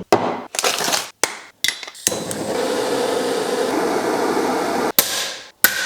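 Metal hand tools knocking and clanking against the engine and bench, with several sharp knocks in the first second. A steady rushing noise lasts about three seconds in the middle. Near the end comes a click, then a knock that rings briefly like struck metal.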